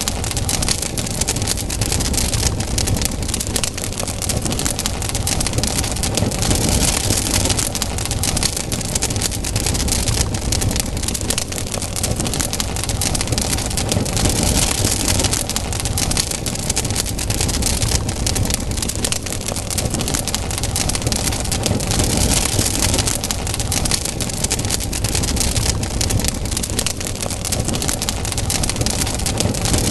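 Campfire burning, the wood crackling with a dense run of small pops over a steady hiss.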